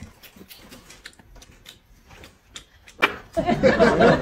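Faint clicks and taps of eating at a table, chopsticks against a bowl. About three seconds in there is a sharp click, then a loud voice starts talking or laughing.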